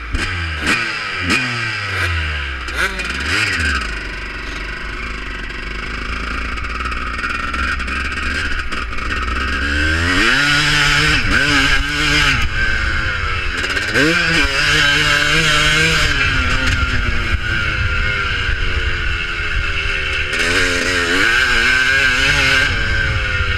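Several motocross bikes racing, their engines revving and changing pitch as they accelerate, shift and pass, with more bikes joining in and the sound growing louder about ten seconds in.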